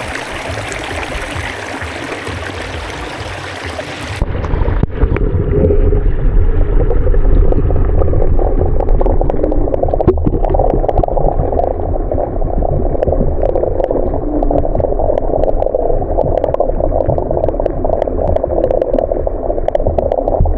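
Stream water rushing, then about four seconds in the action camera goes under the water and the sound turns abruptly to a muffled low rumble and gurgle with scattered small clicks.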